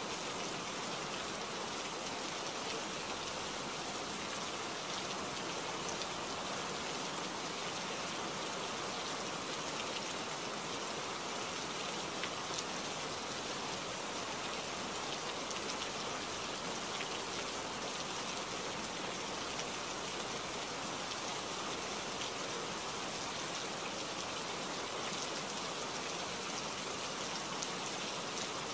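Steady rain falling: a constant even hiss, flecked with the ticks of single drops landing close by.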